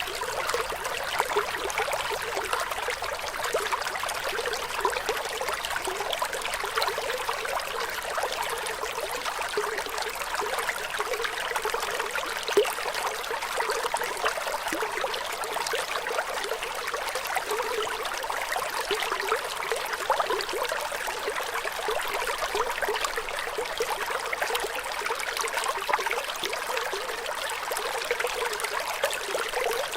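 Flowing water trickling and babbling steadily, with little deep rumble underneath.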